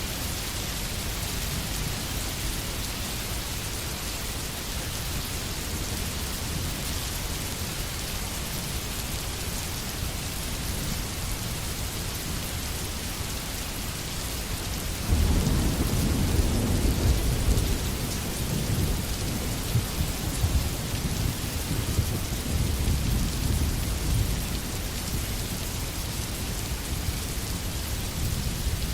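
Steady rain falling, an even hiss. About halfway in a low rumble of thunder breaks in suddenly, loudest for a few seconds, then rolls on more faintly under the rain.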